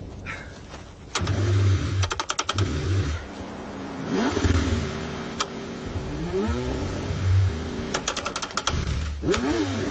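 A car engine cranking and revving in freezing cold, its pitch rising and falling unevenly as it struggles. Quick runs of sharp clicks come about two seconds in and again near eight seconds.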